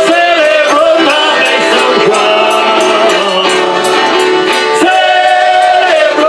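Folia de Reis group singing, accompanied by an eight-bass button accordion (sanfona de 8 baixos), with long held sung notes.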